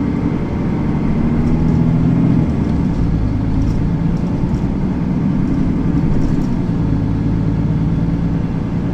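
Mercedes-Benz Citaro facelift city bus engine running as the bus drives along, its note building slightly over the first two seconds and then holding steady.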